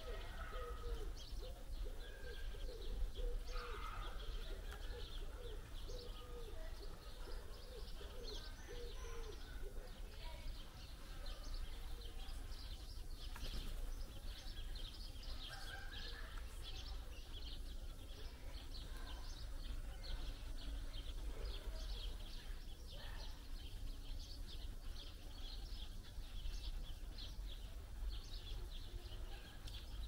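Small garden birds chirping in quick, busy calls throughout, with a pigeon cooing low underneath during the first ten seconds or so, over a steady low outdoor rumble.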